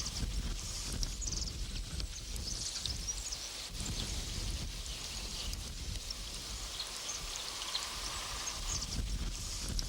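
Riverside ambience: a steady hiss of running river water with a low rumble, and high chirping calls that come and go throughout.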